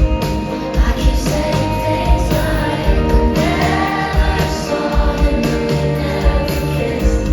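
Live pop music: a band playing with a female lead vocal and a crowd singing along.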